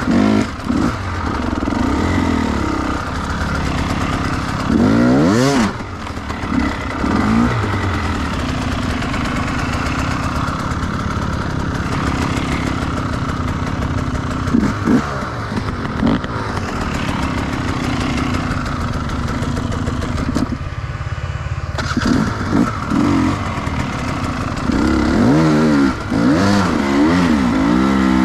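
Enduro dirt bike engine running hard, its pitch rising and falling again and again as the throttle is opened and closed.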